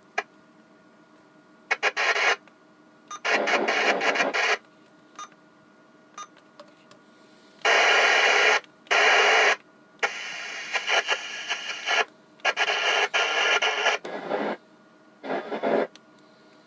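Maycom EM27 CB handheld radio receiving: bursts of static and radio signal from its speaker cut in and out abruptly, about eight times, with short quiet gaps between them.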